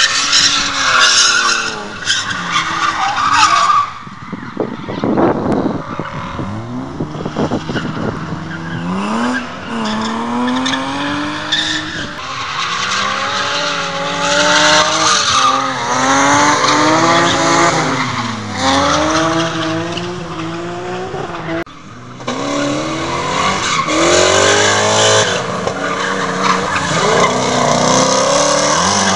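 Drift cars' engines revving hard, their pitch repeatedly climbing and falling, over the hiss and squeal of tyres sliding. The sound drops off abruptly twice, about four seconds in and again a few seconds before the end, then comes straight back.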